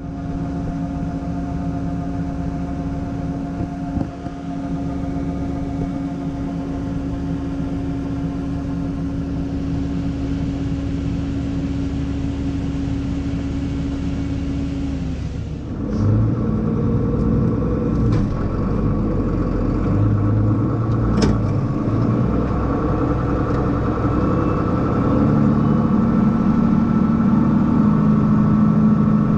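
Farm machinery engine running steadily. About halfway through, the sound switches abruptly to a louder engine with a different pitch.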